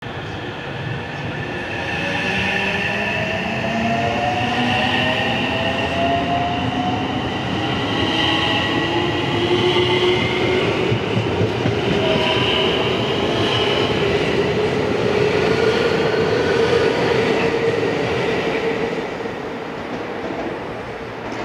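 Electric commuter train running past on the track, its wheels rumbling on the rails and its traction motors whining as they rise in pitch with the train picking up speed. The sound eases off near the end.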